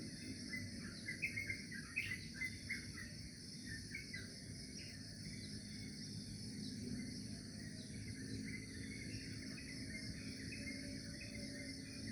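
Outdoor dawn chorus: insects trill steadily and high-pitched throughout, while birds chirp in quick short notes, busiest in the first few seconds and sparser after, over a faint low steady hum.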